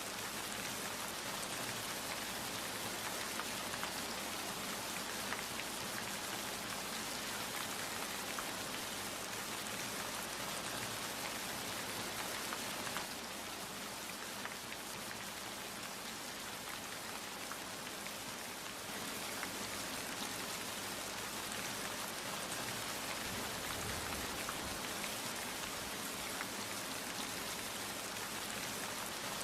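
Steady rain falling, with many individual drops heard as fine ticks within the even hiss. It eases slightly for a few seconds near the middle.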